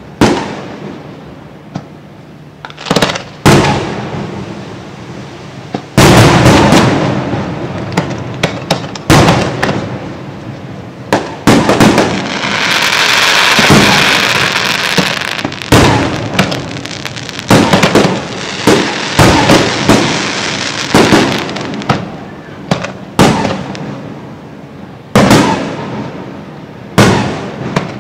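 Aerial fireworks bursting: a series of loud bangs, some spaced seconds apart and some in quick succession, with a long stretch of dense crackling about halfway through.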